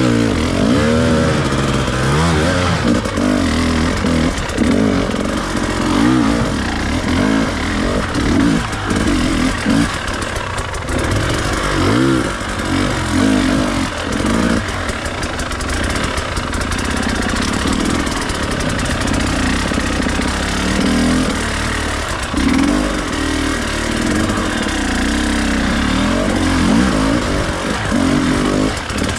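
Enduro dirt bike engine running, its pitch rising and falling over and over with throttle changes.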